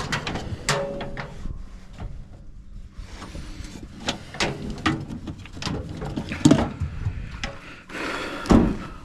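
Irregular knocks and clunks, with louder thuds about six and a half seconds in and again near the end.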